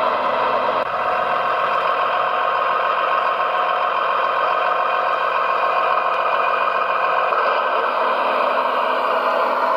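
Radio-controlled construction machine running steadily, a continuous engine-like drone with several steady tones and almost no bass.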